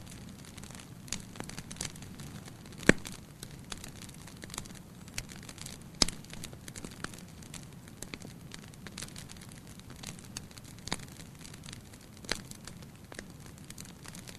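Wood fire burning in a fireplace: a steady low rumble of flames under frequent crackles and sharp pops, the loudest pops about three and six seconds in.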